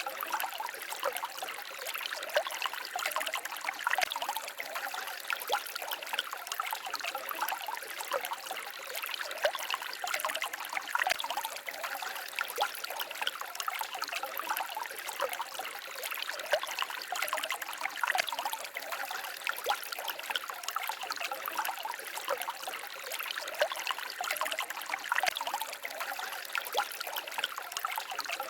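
Small forest stream babbling and trickling over stones: a steady run of many small splashes and gurgles.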